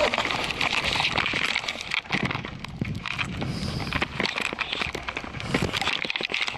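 Bicycle tyres crunching and crackling through fresh snow in an irregular stream of short clicks.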